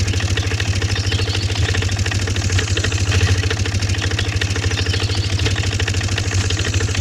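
A small motor-driven machine running steadily, with a fast even pulsing.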